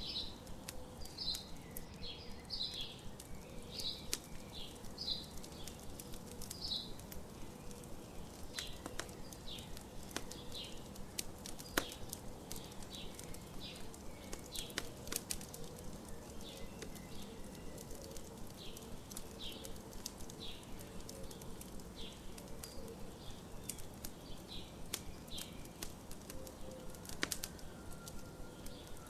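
Campfire crackling with scattered sharp pops, the loudest about twelve seconds in, while birds chirp repeatedly in short notes.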